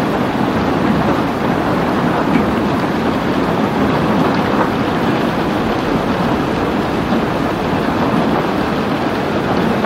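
Steady rain: a dense, even hiss with no breaks.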